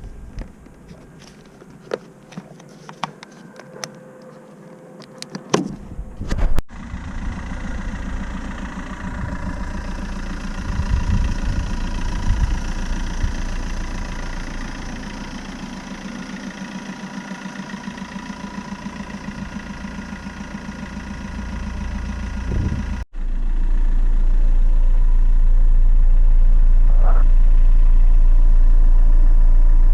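Ford Ka 1.3 TDCi diesel engine running steadily, heard across edited cuts. For the first six seconds there are only scattered clicks and knocks. The engine then runs with a steady rumble, and from about 23 seconds in a louder, deeper drone.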